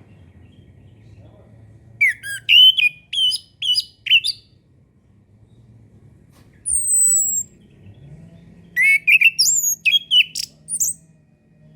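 Orange-headed thrush singing: a quick phrase of varied, sliding whistled notes, then a single high falling whistle, then another quick run of notes.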